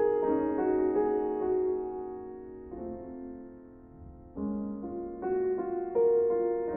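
Soft solo piano music: slow, gentle notes that fade to a quiet passage midway, then pick up again with new chords.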